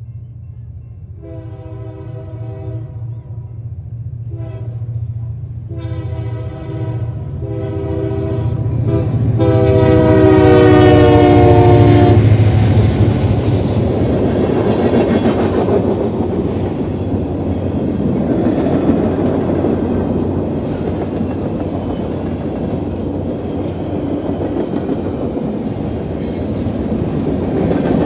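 Union Pacific freight train's diesel locomotives approaching a grade crossing, sounding the horn in a string of blasts. The last blast is long and its pitch drops as the lead locomotive passes. Then the freight cars roll by with a steady, loud rumble.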